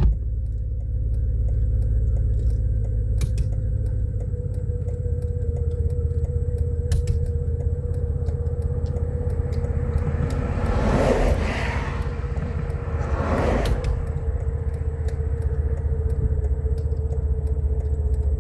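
Car engine idling with a steady low rumble, twice swelling louder for a moment about ten and thirteen seconds in; the owners take the roughness for bad gas working through the engine.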